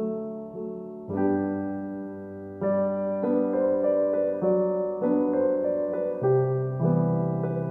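Background music: a gentle solo piano piece, notes and chords struck about once a second and left to ring and fade.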